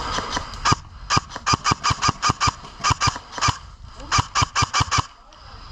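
Airsoft gun firing in quick strings of sharp shots, about seven a second, stopping about five seconds in.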